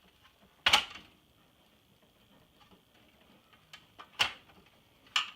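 Three sharp, short knocks of hard objects being handled: a loud one about a second in, another near four seconds and a third near the end.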